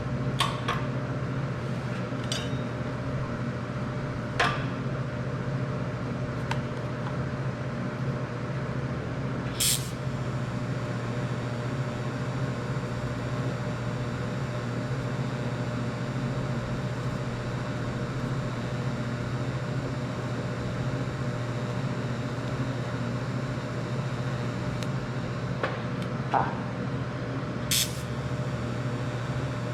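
Welding machine running during a weld: a steady low hum with a few faint higher tones over it, broken now and then by short sharp metallic clicks.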